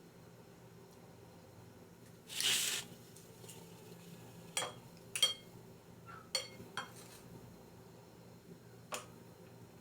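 Cutlery clinking against a plate while eating cake: a short scrape, then about five sharp, ringing clinks spread over several seconds.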